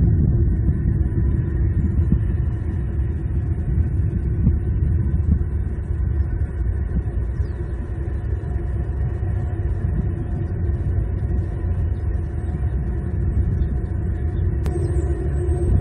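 Steady low rumble picked up by an outdoor nest-cam microphone, with a faint constant hum over it. A sharp click sounds near the end, followed by a thin high tone.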